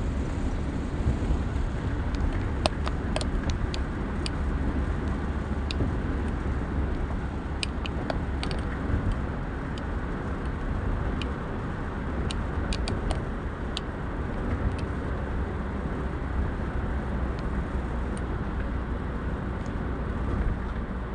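Steady road and engine noise of a car driving at speed on a highway, with scattered small clicks.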